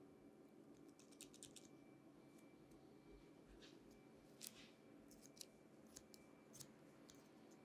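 Barber's scissors snipping hair: faint, irregular sharp snips and clicks, a quick run of several about a second in and one slightly longer cut midway, over a low room hum.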